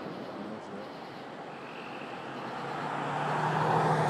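Aerial fireworks: the echoing rumble of a shell burst fades out, then a rushing noise builds over the last couple of seconds up to a sharp bang right at the end. A low steady hum joins about three seconds in.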